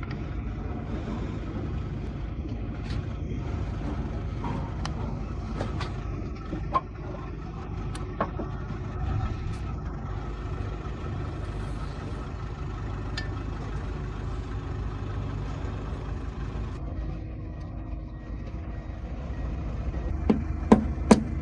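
Steady low rumble of a running vehicle engine, with scattered light clicks, then a quick run of sharp knocks near the end.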